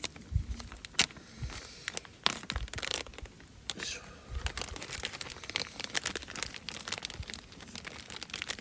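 Plastic packaging crinkling and tearing as food is handled and unwrapped, with scattered sharp clicks and a couple of louder knocks.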